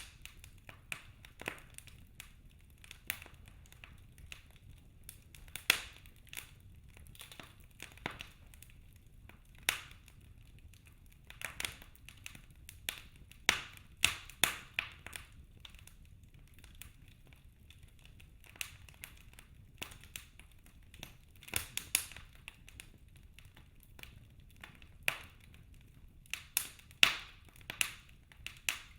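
Wood logs burning in a fireplace, crackling with irregular sharp pops and a handful of louder snaps, over a faint steady low rumble.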